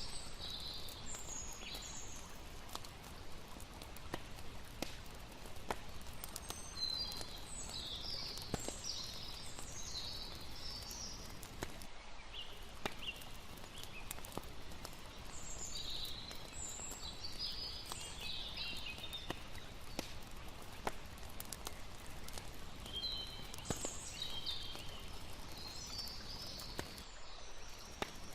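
Layered night nature soundscape: a campfire crackling with frequent sharp pops over a steady low wash of water. Groups of short, high bird-like chirps recur every several seconds.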